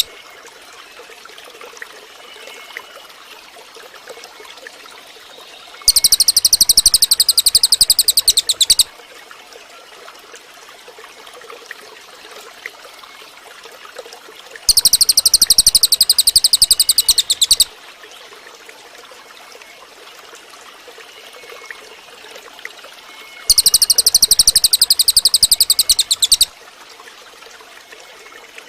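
Cililin bird singing: three loud, high, rapidly pulsing trills of about three seconds each, spaced roughly nine seconds apart, with a faint steady background hiss between them.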